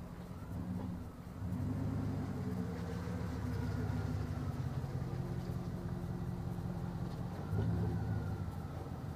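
Jeep Grand Cherokee's 5.2-litre (318) Magnum V8 running at low speed, its engine note rising briefly about a second and a half in and again near the end.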